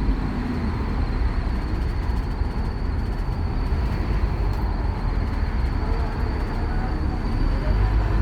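Scania K230UB Omnilink bus running, a steady low engine and road rumble with a thin, steady high whine above it.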